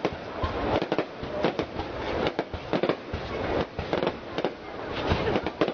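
Aerial firework shells bursting in quick, irregular succession: a dense run of bangs and crackles with no let-up.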